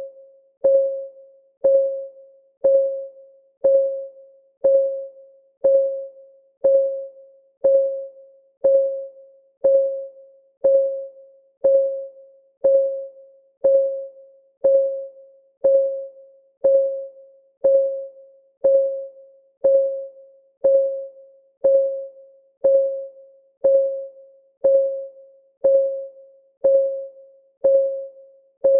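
Countdown timer's clock-ticking sound effect: short pitched ticks, about one a second, each ringing briefly and dying away.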